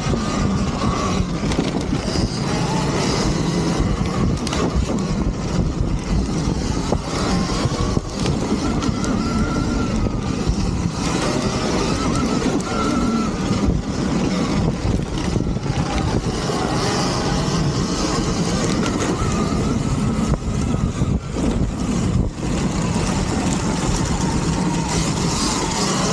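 Sur-Ron Ultra Bee electric dirt bikes being ridden: a thin electric-motor whine rising and falling with the throttle over a steady rushing noise.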